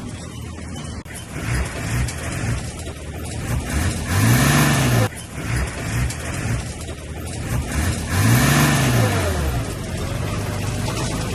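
Heavy diesel engine of earth-moving machinery running, revving up and back down twice about four seconds apart, with steady running between the revs.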